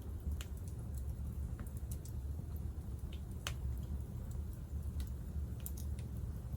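Wood fire crackling in a Picogrill fire pit: irregular sharp pops over a steady low rumble.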